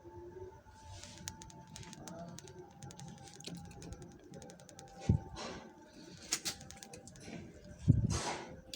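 Two knocks, about five and eight seconds in, each followed by a short rush or rustle, with faint scattered ticks between them, as a charcoal grill fire is being lit.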